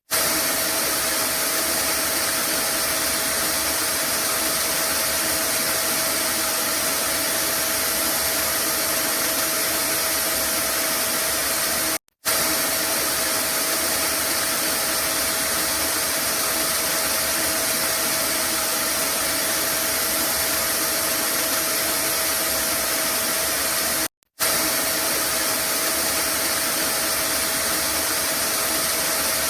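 Vacuum cleaner running steadily, a loud even rush of air with a constant whine. It cuts out for a split second twice, about 12 and 24 seconds in, where the recording loops.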